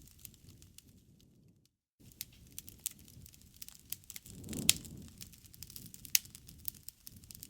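Wood fire crackling, with irregular sharp pops over a soft low rustle of the flames. The sound cuts out completely for a moment just before two seconds in, and the loudest pop comes a little past the middle.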